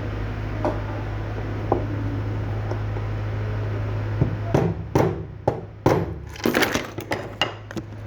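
A steady low hum, then from about halfway through a run of sharp, irregular clicks and knocks of small hard parts and tools being handled during a repair of a Mercedes electronic steering lock (ELV) unit.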